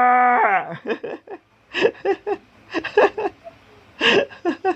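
A held, goat-like 'baaa' sung in imitation of a goat's bleat ends in the first half second, its pitch dropping away. It is followed by a scatter of short vocal sounds, giggle-like bursts and chatter.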